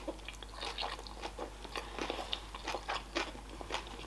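A person chewing a mouthful of sushi roll close to the microphone: a quick, uneven run of short wet clicks and smacks, several a second.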